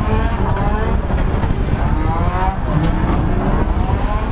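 Holden VY Commodore ute's engine revving on a wet skid pan, its pitch climbing and falling back about three times over heavy low rumble.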